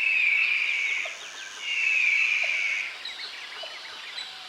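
Eagle screeching: two harsh, drawn-out calls, the second starting about a second and a half in, followed by fainter quick chirping notes.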